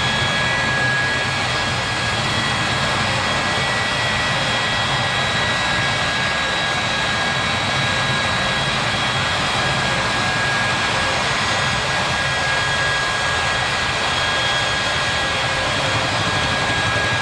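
Jet engine of a jet drag-racing car running steadily, a loud, even rush with a high turbine whine held on top.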